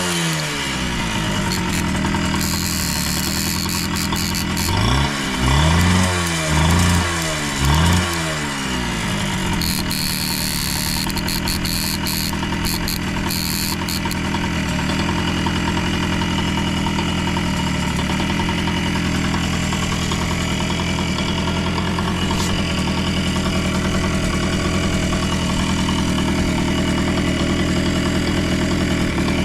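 Yamaha YB-1's 50cc two-stroke single-cylinder engine running. Its revs drop back at the start, it is blipped up and down three times about five to eight seconds in, then it settles into a steady idle. It revs up cleanly with no abnormal noises, as the seller states.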